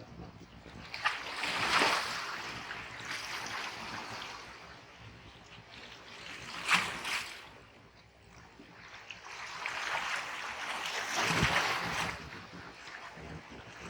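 Black Sea surf: waves breaking and washing up the shore in repeated swells, with a sharp crash about seven seconds in and a long swell near the end.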